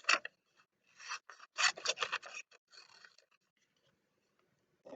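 Scissors cutting paper: a quick run of rasping snips from about a second in, fading out a little past the middle.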